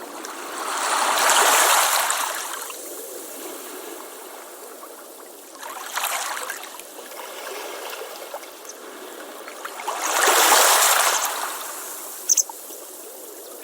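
Ocean waves washing onto a beach, with three surges about four seconds apart that swell and fade over a steady wash. A brief high click comes near the end.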